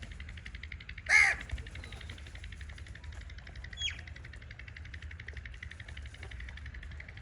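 A crow gives a single loud, harsh caw about a second in, and a small bird chirps once briefly a few seconds later, over a steady fast pulsing background hum.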